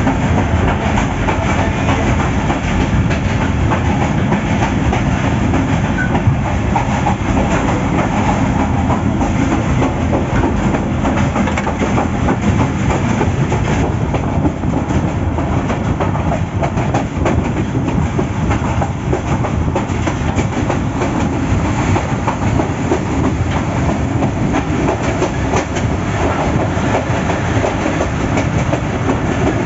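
Coal freight train running along the line, heard from aboard through an open doorway: a loud, steady rumble of steel wheels on the rails with a continuous clickety-clack.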